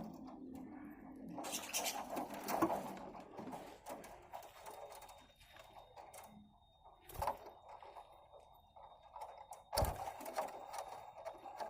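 Budgerigars pecking and cracking sunflower seeds: irregular small clicks and crunches, with two louder knocks about seven and ten seconds in.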